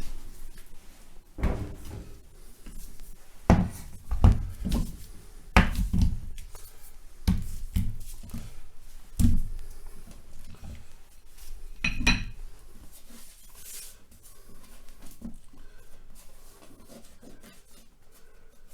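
Stacked weight plates being lifted off one by one and set down: a series of heavy thuds and clunks, with a short metallic ring about twelve seconds in.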